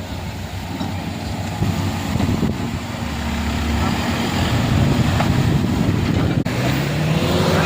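A motor vehicle's engine running steadily and growing louder over the few seconds.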